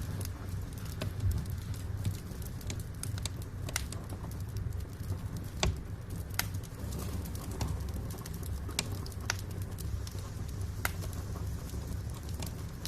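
Wood fire burning in a fireplace: irregular sharp crackles and pops of the burning logs, a few louder than the rest, over a steady low rumble of the flames.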